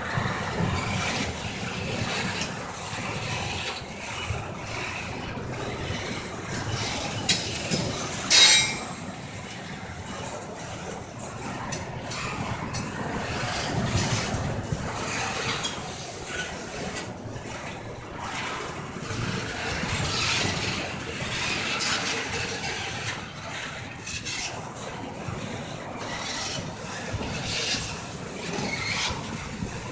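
Intermodal freight train's cars rolling past on steel rails, a steady rumble and hiss of wheels on track. A few brief, sharp, louder high sounds stand out, the loudest about eight seconds in and another about twenty-two seconds in.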